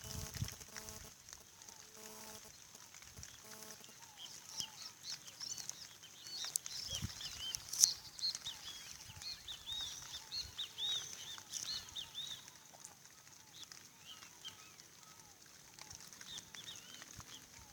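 Many short, high chirps from small birds or fowl, thickest in the middle, over a steady high hiss; a single sharp click about eight seconds in.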